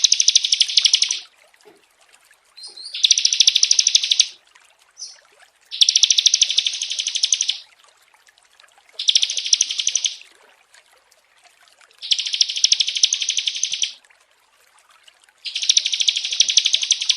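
Small songbird's rapid chattering trill, given in six bursts of about one and a half to two seconds with short pauses between. It is a bird-song training recording of small birds.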